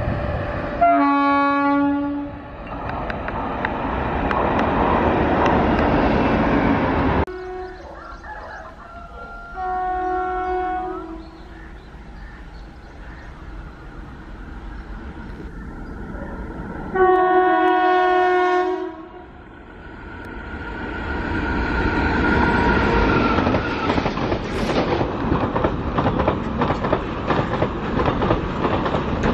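Indian Railways electric locomotive air horns sounding three blasts, the last two from a WAG-7 hauling a container freight. Between and after them the train runs past, and from about twenty seconds in the container wagons roll by close up with a rapid clickety-clack of wheels over rail joints.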